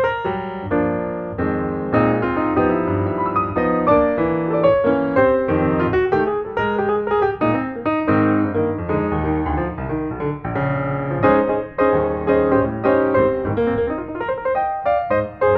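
Piano music with many quick notes in a steady flowing pattern.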